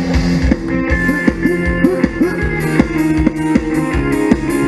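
Mor lam sing band playing an instrumental passage: drum kit keeping a fast, steady beat with kick drum and cymbals, under bass and a plucked string lead that bends its notes.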